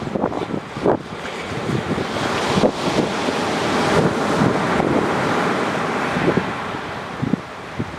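Surf on a sandy beach: a wave surges in over the first few seconds, peaks midway and washes back out near the end. The sea is slightly rough, and wind gusts buffet the microphone.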